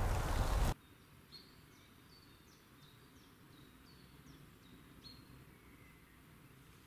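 A loud rustling noise cuts off abruptly less than a second in. Then a quiet wood, where a small bird sings a quick series of short, high chirps, each falling in pitch, for a few seconds.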